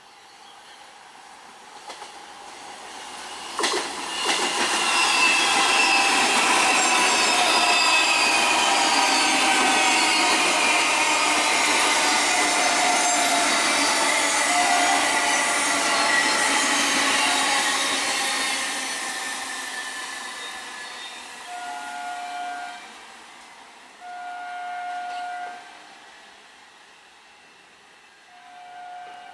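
Suburban EMU local train passing close: loud wheel-on-rail running noise with a whine that slowly falls in pitch, fading away after about twenty seconds. Then a train horn gives two steady blasts, each a second or so long, and a third starts at the very end.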